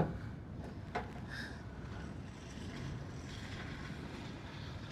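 Wind buffeting the microphone, a steady low rumble, with two light clicks: one at the start and one about a second in.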